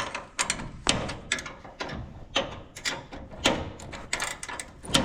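Irregular metallic clicks and clanks from hand work on a grain drill's sprocket and roller-chain drive, about a dozen sharp knocks spread over a few seconds.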